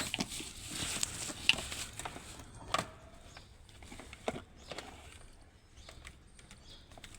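Handling noise from a handheld car vacuum cleaner and its packaging being unboxed: some rustling at first, then a few separate light knocks and clicks.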